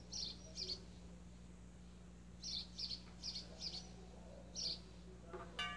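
A small bird chirping: about eight short, high chirps, several of them in a quick run about two and a half seconds in, over a low steady hum. A brief pitched call comes near the end.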